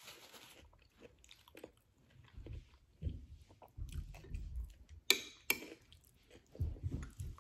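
Close-up chewing of a mouthful of soft vegan shepherd's pie, irregular wet mouth sounds. About five seconds in, a metal spoon clinks twice against the ceramic bowl while scooping more.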